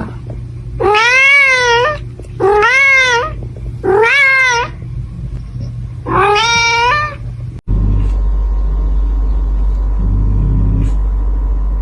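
A cat meowing loudly and insistently: four long, drawn-out meows, each rising and then falling in pitch. About two-thirds of the way through it cuts off abruptly to a steady low hum.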